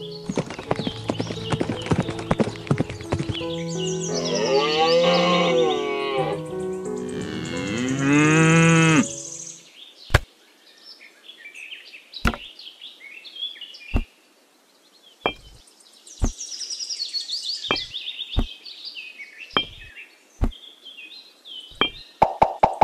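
Cow mooing, two long calls over a backing of music and clicks. After it cuts off about nine seconds in, a series of single small knocks about a second or two apart as miniature clay bricks are set down one by one on sand, with faint bird chirps.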